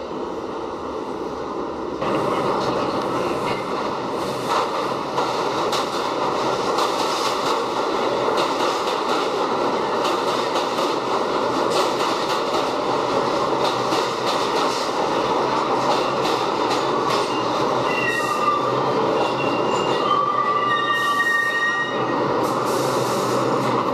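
New York City subway train running, heard from inside the car: a steady rumble and rattle that gets louder about two seconds in. Wheels squeal with several high whining tones near the end, typical of the train taking a curve.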